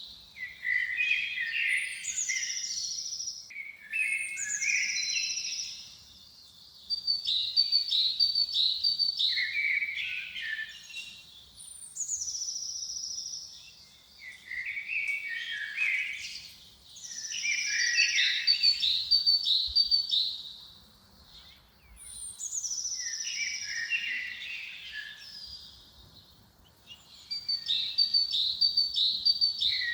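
Songbirds singing in the forest: short, fast song phrases of high chirps and trills, each a couple of seconds long, repeated every few seconds with brief pauses between them.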